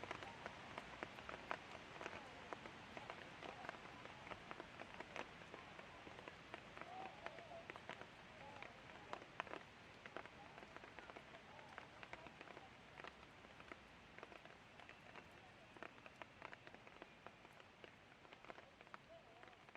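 Light rain falling, with many small sharp drop ticks on a nearby surface over a soft steady hiss, gradually growing quieter.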